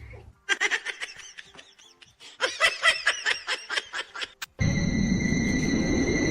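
Laughter, a quick run of short, pitched bursts lasting about four seconds. Then a sudden, louder, steady hiss with a high, steady whine over it.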